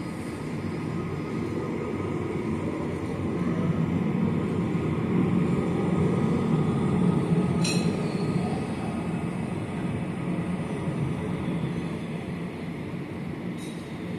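Steady low rumble of a large passing vehicle, building to a peak around the middle and easing off, with a couple of brief clicks.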